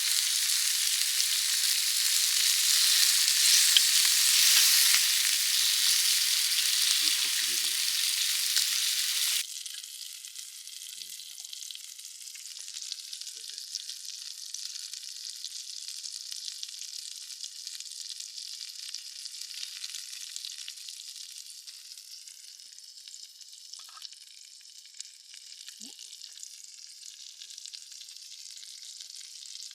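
Thick slices of beef sizzling as they sear again on a hot pan, a loud steady hiss that drops suddenly to a much quieter sizzle about nine seconds in.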